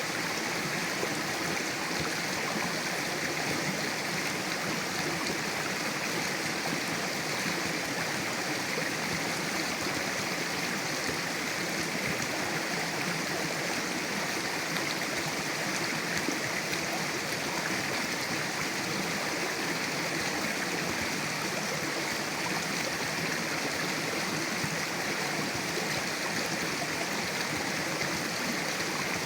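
Mountain river rushing steadily over rocks, an even unbroken sound of water.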